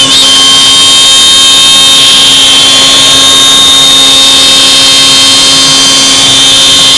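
CNC router spindle running steadily, a loud continuous high whine over machining noise.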